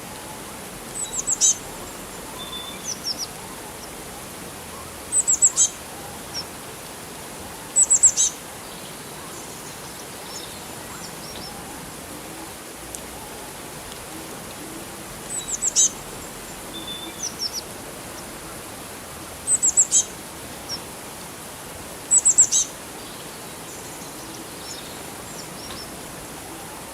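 A songbird repeats a short, high phrase of quick notes about six times, with softer chirps in between, over a steady rush of running water.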